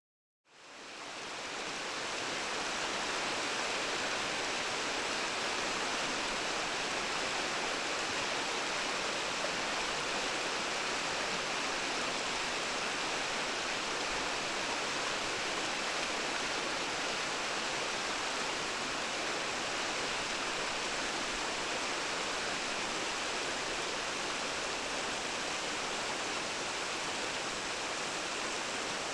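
Mountain stream of the Onyu River rushing steadily, fading in over the first second or two.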